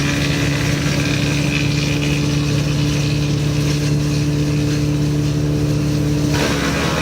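Woodchipper's engine running steadily. About six seconds in its note changes and a rougher, noisier sound takes over.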